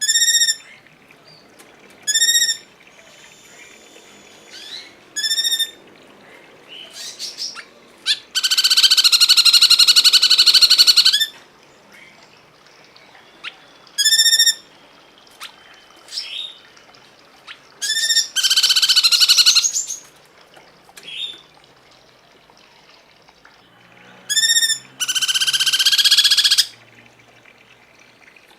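Songbird calls from a cungkok bird-song training recording: short ringing whistled notes repeated every few seconds, broken by three long harsh buzzing trills of one and a half to three seconds each.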